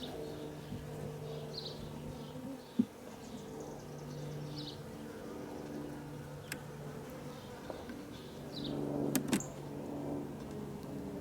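Honey bees buzzing steadily around an open hive, a wavering hum. A few sharp knocks from hive frames being handled cut through it, the loudest about three seconds in and a close pair near the end.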